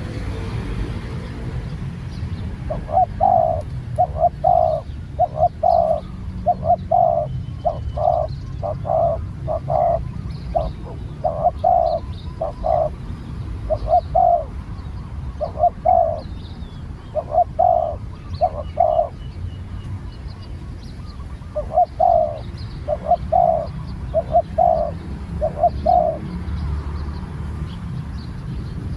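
Spotted doves cooing in a long run of short, even notes over a steady low rumble. The run pauses about two-thirds of the way through, then starts again for a few more phrases.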